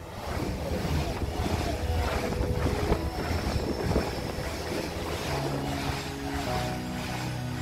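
ICE high-speed train passing through at speed: a steady rushing noise of wheels and air. Faint music chords run underneath.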